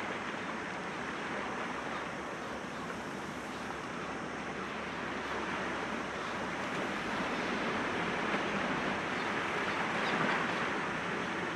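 Sea waves breaking gently against rocks, a steady wash of surf that swells up about ten seconds in.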